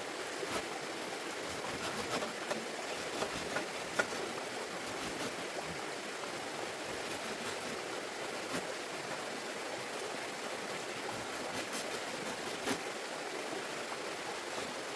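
Steady rush of running water, with scattered light clicks and knocks.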